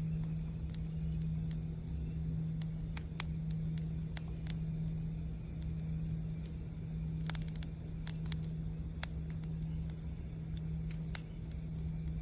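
Campfire crackling, with frequent sharp pops and snaps, over the steady low hum of a singing bowl.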